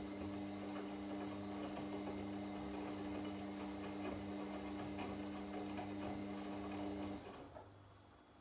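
Washing machine motor running with a steady hum and light clicks, cutting off about seven seconds in and leaving only a faint low hum.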